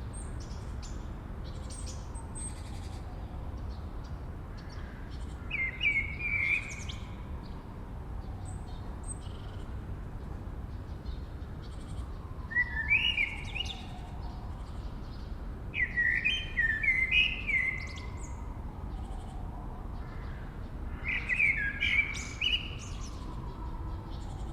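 Wild birds singing: one bird repeats a loud, short phrase of quick notes four times, roughly every four to five seconds, while fainter high chirps come from other birds. A steady low rumble of background noise lies under it.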